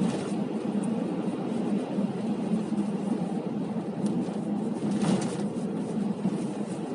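Steady road and tyre noise of a car being driven, with a brief louder rush about five seconds in.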